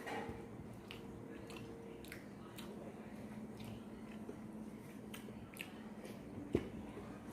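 Close-miked chewing and wet mouth clicks of someone eating rice and curry. About six and a half seconds in there is a single sharp knock, the loudest sound.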